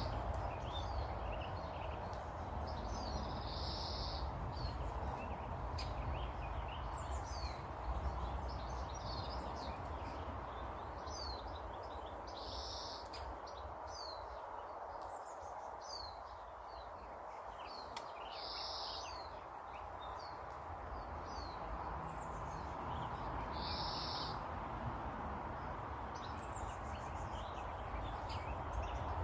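Small birds chirping and calling, with a louder call repeated about every five to six seconds over a steady low background noise.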